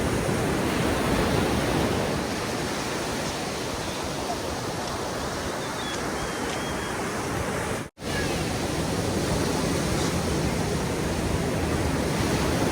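Ocean surf breaking and washing ashore on the beach, a steady rush that swells louder early on and again later, cut by a sudden, brief dropout to silence about two-thirds of the way through.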